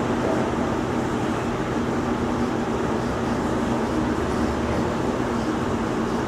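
Steady machinery noise: a continuous rumble with a low, even hum and no breaks.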